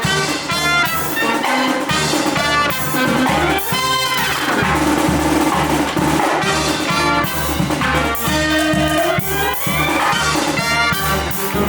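Live brass band playing an upbeat tune: trumpets and trombones over drums with a steady beat.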